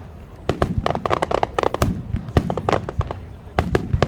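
Aerial firework shells bursting in a rapid, uneven run of sharp bangs and cracks, with deep booms beneath some of them.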